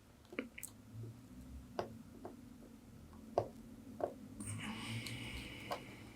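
Faint, scattered small clicks and taps of handling tiny surface-mount parts and a soldering iron on a circuit board, with a soft hiss near the end.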